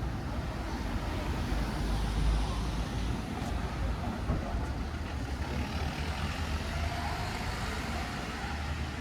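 Street traffic: motor vehicles passing with a steady low engine rumble, and a faint rising engine note in the second half.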